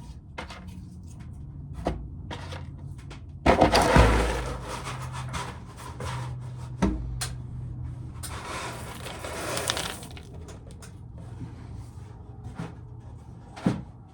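Dried corn kernels being shelled off the cob, clicking and rattling as they fall into a container, with two louder stretches of scraping and rattling, one about three and a half seconds in and one near the middle. A steady low hum runs underneath.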